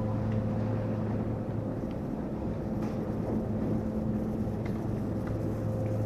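A steady low mechanical hum with a faint higher tone over it, unchanging throughout, and a few faint ticks.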